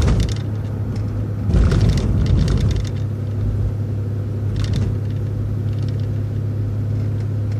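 City transit bus running along the road, heard from inside: a steady low engine drone, with knocks and rattles at the start and again about one and a half to three seconds in.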